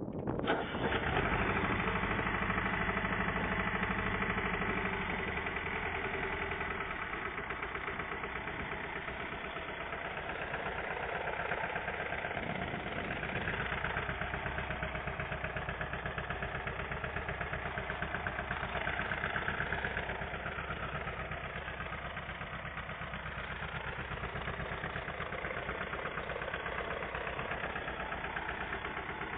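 Ruggerini RD270 single-cylinder diesel engine running steadily, its quick, even firing knock carrying throughout.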